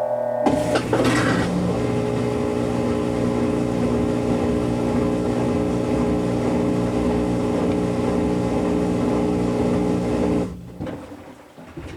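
Kenmore Series 500 high-efficiency washing machine in its spin cycle: a loud, steady motor whine over a rushing noise that cuts off suddenly about ten and a half seconds in, leaving a few quieter knocks.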